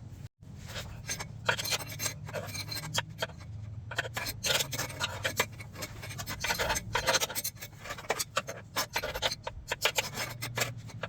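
Hand ratchet clicking in quick, irregular runs, with metallic scraping, as bolts are run in and tightened on an exhaust up-pipe.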